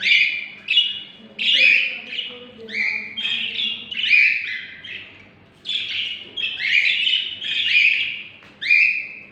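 Pet parrots calling: a steady run of shrill, harsh squawks, about one or two a second.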